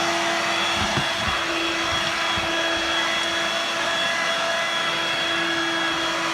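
Dirt Devil Vibe corded bagless stick vacuum running with its floor head's rotary brush engaged: a steady motor whine over airflow hiss, with a few soft low thumps about a second in.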